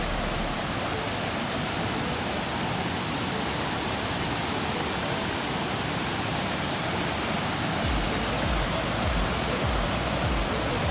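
Steady rush of a large three-tiered waterfall, heard close up. From about eight seconds in, a low rumble comes and goes underneath it.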